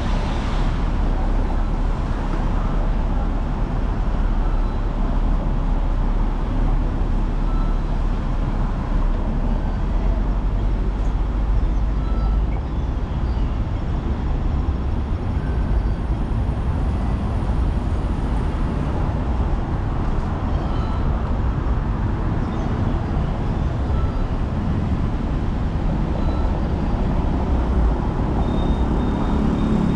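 Hong Kong tram running along the street, a steady low rumble with city traffic around it.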